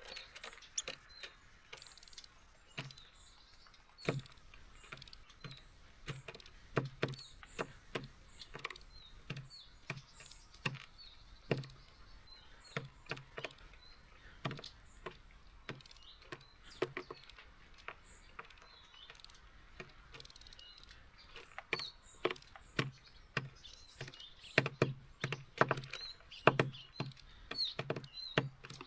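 Tree sparrows pecking and hopping on a bird feeder: irregular sharp taps and knocks on the feeder, coming thicker near the end, with faint high chirps now and then.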